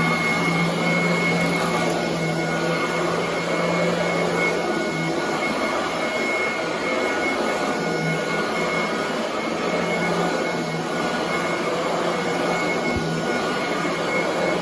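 Commercial vacuum cleaner running steadily on carpet, a constant motor hum with a thin high whine over it.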